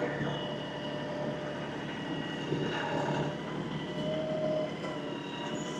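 LS XR315 compact tractor's engine running steadily while the front grapple pulls cattails, with a steady whine over the engine note and a short higher tone about four seconds in.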